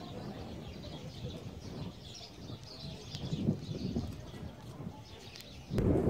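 Outdoor ambience of birds chirping, with soft low background sounds. Just before the end, loud wind buffeting on the microphone cuts in.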